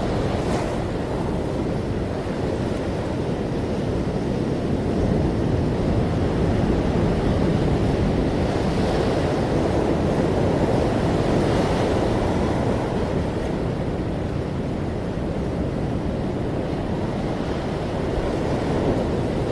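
Ocean waves washing onto a shore as a continuous deep rushing noise, swelling gently now and then.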